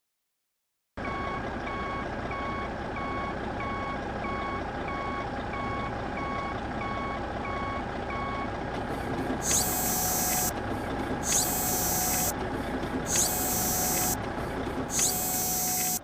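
Truck reversing beeper sounding about twice a second over a steady engine rumble, then four short hissing bursts about two seconds apart, with a lower beep between them.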